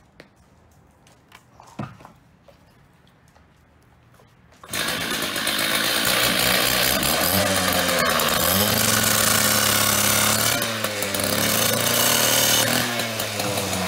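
A few faint clicks of handling, then about five seconds in a power cutting tool starts abruptly and runs loud and steady, cutting the screws off the back of a payphone.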